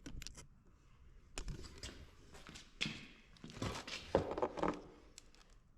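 Handling noise: scattered clicks, light knocks and rustling as an object is moved about and held up close, with the busiest stretch in the middle.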